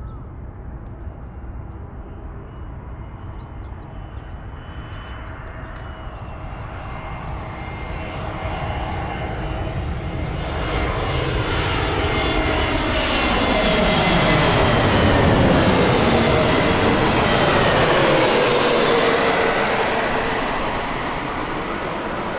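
Airbus A320neo jet airliner on final approach, its engines growing steadily louder as it nears and passes, with a falling pitch as it goes by, then easing off near the end.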